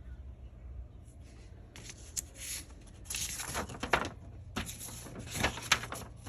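Paper rustling and crinkling in several bursts from about two seconds in, as a model kit's paper instruction sheet is unfolded and handled.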